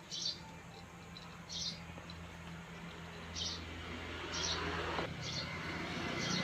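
A bird chirping repeatedly, short high-pitched calls about once a second, over a low hum of traffic that grows louder toward the end.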